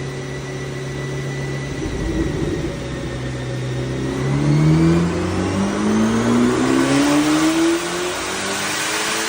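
Chevrolet Corvette ZR1X's twin-turbo LT7 V8 through a Fabspeed cat-back exhaust, accelerating: the engine note climbs steadily in pitch for several seconds, with a rising whine above it, then eases off near the end.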